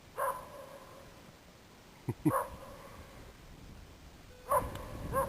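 Dog barking: single barks about two seconds apart, then two in quick succession near the end, each trailing off briefly.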